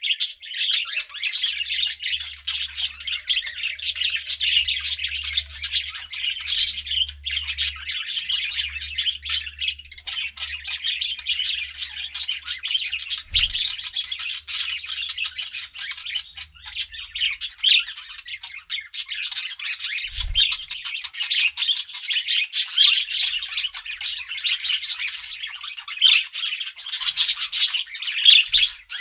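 Several budgerigars chattering and chirping at once in a continuous, dense warble of short squawks and tweets, with no pauses.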